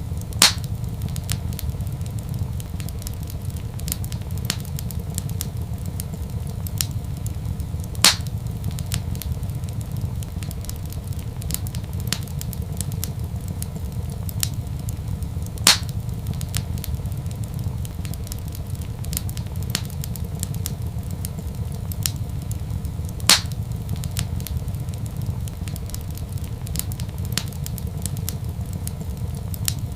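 Wood fire crackling in a fireplace over a steady low rumble, with many small ticks and a louder sharp pop about every seven or eight seconds, four in all.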